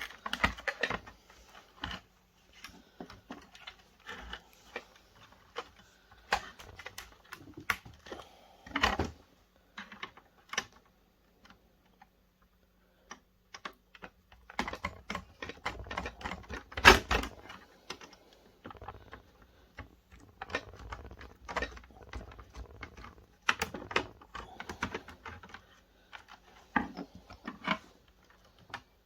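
Plastic and metal parts of a video projector being handled and worked apart: irregular light clicks and taps, with a louder knock about 17 seconds in and a short quiet spell before it.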